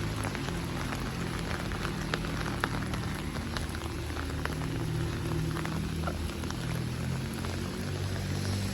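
Steady rain falling, with scattered close drops ticking sharply, over a low steady rumble.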